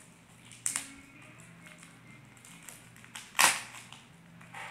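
A toy blind-bag wrapper being opened and crinkled by hand, with sharp crackles about two-thirds of a second in and, loudest, about three and a half seconds in, and a softer one near the end.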